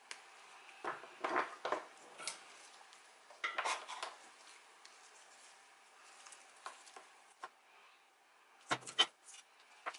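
Small hand tools and wire handled on a workbench: clusters of light metallic clicks and scrapes about a second in, near four seconds, and again near nine seconds.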